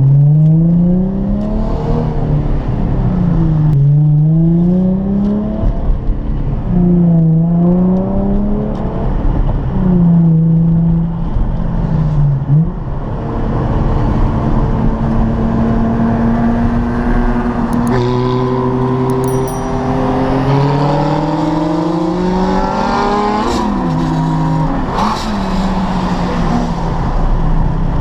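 Nissan 350Z's 3.5-litre V6 engine under way, its pitch dipping and rising several times, then climbing steadily through a long hard pull before dropping sharply twice near the end as the revs come off.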